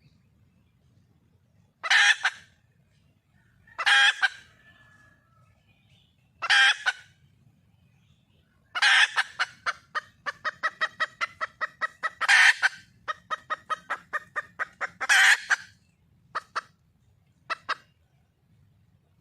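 Junglefowl hen calling for a mate: three single loud calls about two seconds apart, then a fast run of short clucks, about four a second for some six seconds, with louder calls breaking in, thinning to a few single clucks near the end.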